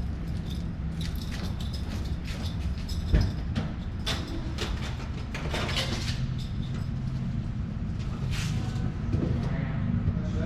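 Infiniti Q50 Red Sport 400's twin-turbo 3.0 V6 idling steadily through a Motordyne exhaust with AMS lower downpipes, a low even drone. Scattered clicks and a single knock about three seconds in.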